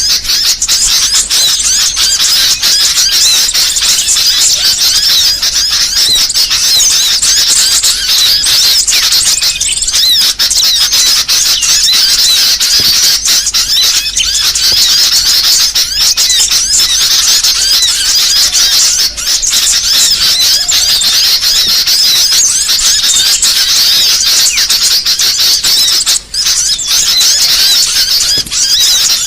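A dense, continuous chorus of small songbirds' rapid high-pitched chirps, twitters and trills, overlapping without a break. This is a mixed-species lure recording of small birds, the kind played to attract or train birds.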